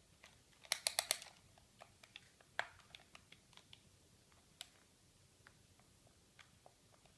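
Scattered light clicks and taps, with a quick run of four or five sharper clicks about a second in and a single louder click a little later.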